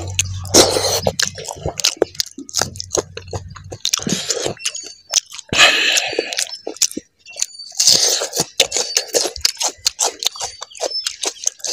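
Close-miked chewing of pork fry and rice eaten by hand, with many wet mouth clicks and a few louder bursts of chewing noise.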